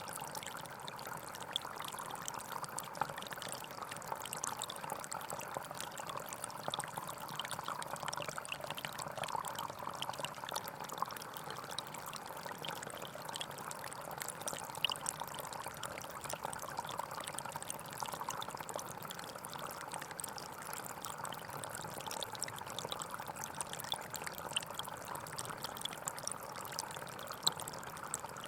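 Gentle forest stream flowing: a steady water rush dotted with many small splashes and gurgles.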